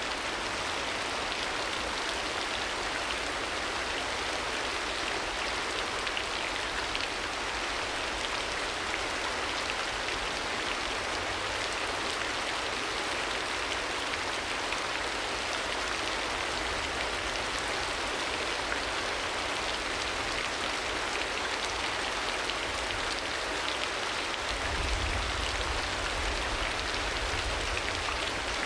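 Steady rain falling, an even hiss of many drops with no let-up. A low rumble underneath grows stronger near the end.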